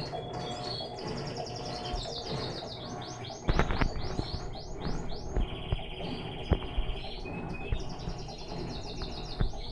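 Small birds chirping steadily in quick runs of short falling notes, with a few knocks in between.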